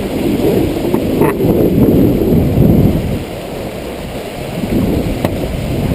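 Strong wind buffeting the microphone, a loud low rumble that eases a little about three seconds in and then picks up again.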